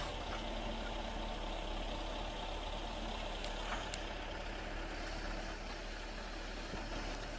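A machine's engine running steadily at an even, low speed, with no revving.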